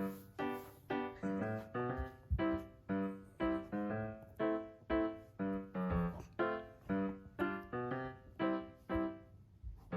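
Background music: a piano-like keyboard melody of evenly spaced notes, about two a second, each fading after it is struck.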